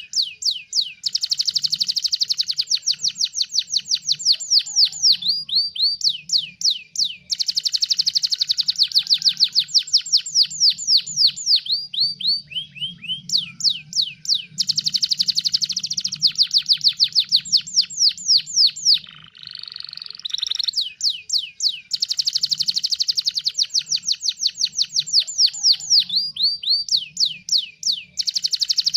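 Domestic canary singing loudly in long, rapid trills of repeated falling notes, phrase after phrase with brief pauses between.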